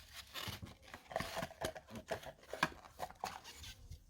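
Plastic parts of a cordless stick vacuum being handled and pushed back together: irregular clicks, taps and scraping rustles.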